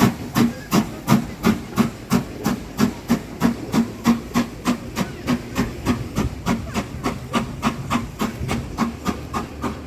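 Steam locomotive chuffing at a steady pace, about three exhaust beats a second, getting a little fainter toward the end.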